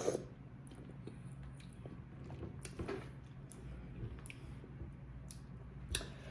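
A person chewing food close to the microphone, with scattered soft wet smacks and mouth clicks.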